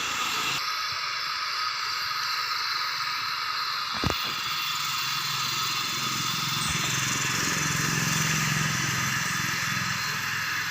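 Aluminium welding on a cracked engine casing: a steady hiss, with a sharp knock about four seconds in and a low hum joining shortly after.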